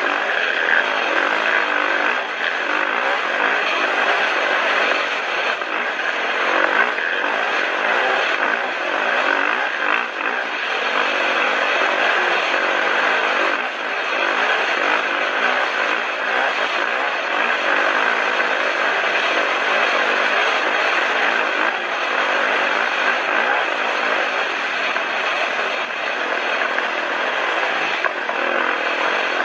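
Motorcycle engines running, loud and steady.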